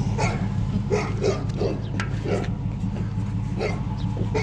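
A dog giving short, repeated yips and barks over a steady low hum.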